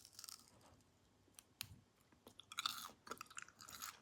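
Close-up chewing of a dried dragon fruit ring: soft, faint crunching and mouth clicks that thicken into a denser run of crunches after about two and a half seconds.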